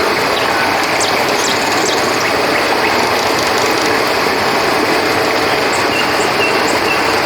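A steady rush of flowing river water with crickets trilling continuously in a high band above it. Short high chirps are scattered through.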